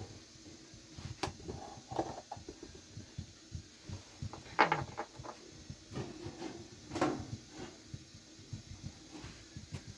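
Irregular knocks and clatters at an uneven pace, the loudest about halfway through and another about seven seconds in.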